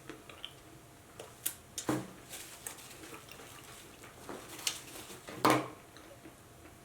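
Close-up eating sounds: scattered small mouth clicks and smacks of chewing, with two louder brief sounds, about two seconds in and about five and a half seconds in.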